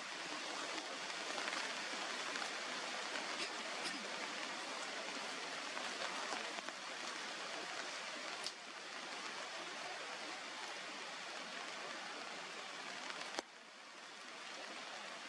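Steady outdoor hiss with a few faint clicks. It drops a little about eight seconds in, then cuts down suddenly with a click about 13 seconds in.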